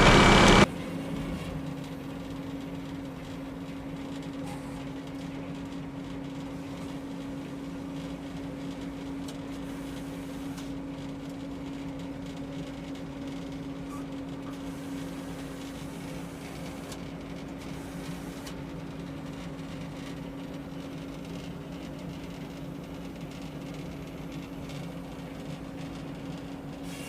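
A loud saw cut ends abruptly under a second in, leaving the Frick sawmill's engine running steadily with a constant low hum, the mill unloaded between cuts.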